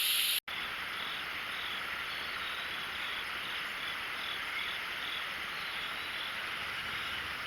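Steady outdoor chorus of calling insects and frogs, with a faint high chirp repeating about three times a second. It starts after a brief cut to silence about half a second in.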